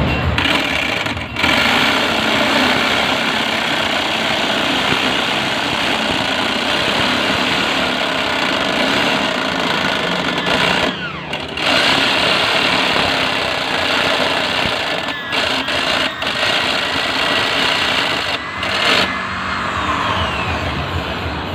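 Electric jigsaw running steadily as it cuts multiplex plywood along a circle, with several brief breaks in the noise.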